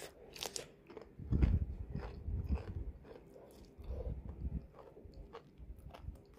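Someone chewing crispy home-fried potato fries close to the microphone: crunching crackles with low thuds, in a few bouts of chewing. The fries are very crisp.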